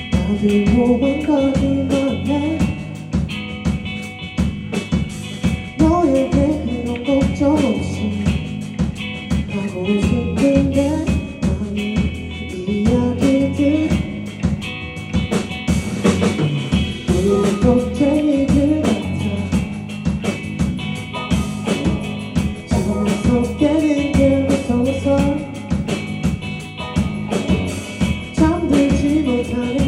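Live band music: a singer's melodic lines in phrases every few seconds over guitar and a drum kit.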